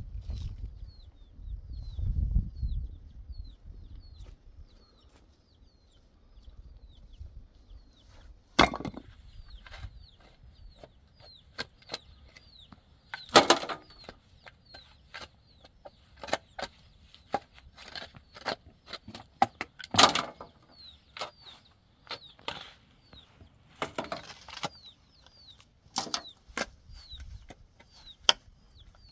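Chicks peeping over and over, short high falling chirps a few times a second, with scattered sharp knocks and cracks in between, the loudest about a third and two-thirds of the way through.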